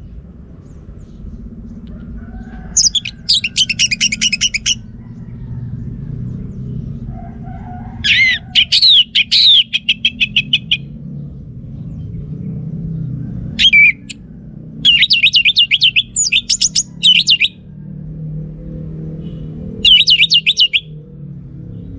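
Orange-headed thrush singing: about half a dozen short phrases of rapid, repeated high notes, each up to two seconds long, with pauses of a few seconds between them, over a low steady rumble.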